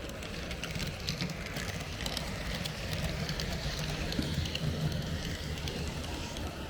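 H0 scale model train running along the track, a steady low rumble from the wheels and motor with scattered light clicks as the wheels pass rail joints and turnouts.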